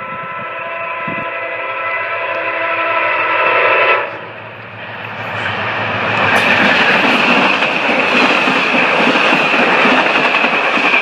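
MARC commuter train's diesel locomotive sounding its horn in a steady chord for about four seconds, which cuts off sharply. Then the train passes close by, engine and wheels rumbling and clacking on the rails, building to a loud, steady rush of passenger cars going by.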